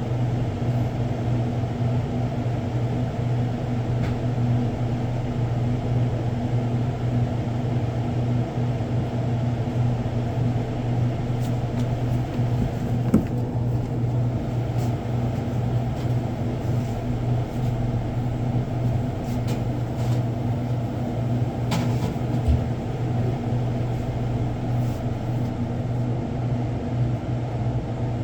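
A steady low mechanical hum that does not change, with a few faint clicks and knocks, the sharpest about halfway through.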